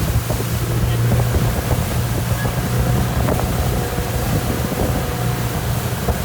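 Motorboat engine running at a steady speed with a constant low hum, under the rush of water and wind buffeting the microphone.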